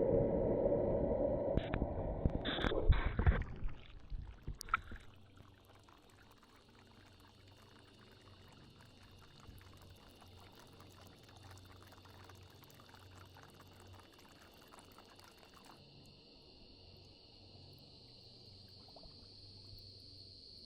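Water pouring and splashing for about four seconds, with a few sharp splashes near the end, then it stops. After that, only a faint steady high insect chirring remains.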